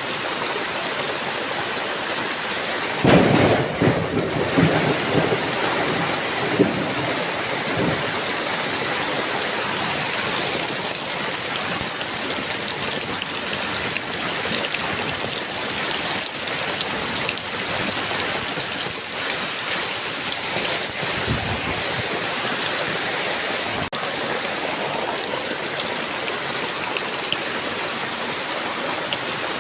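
Heavy rain falling steadily. A sudden loud clap of thunder comes about three seconds in and rumbles on for several seconds, and a fainter rumble of thunder follows later.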